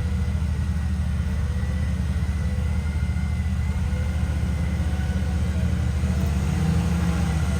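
Side-by-side UTV engine running steadily, a low drone that holds an even speed.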